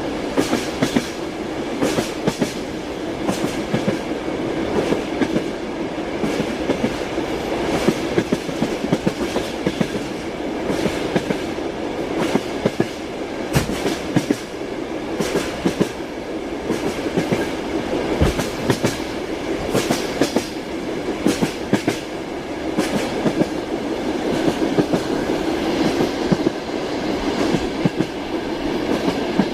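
Train wheels clacking over rail joints, with repeated sharp clicks in uneven groups over a steady rolling rumble.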